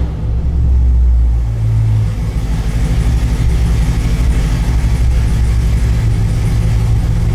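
2013 Camaro ZL1's supercharged 6.2L LSA V8 running, its deep rumble easing about two seconds in and then holding steady at idle.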